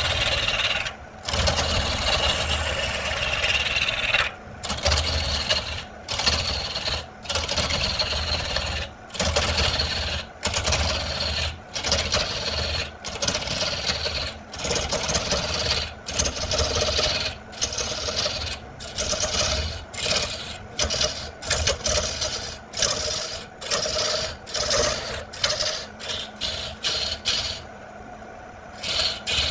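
Tool scraping on wood in repeated rasping strokes, at first long, then about one a second, growing shorter and quicker toward the end, then stopping shortly before the end.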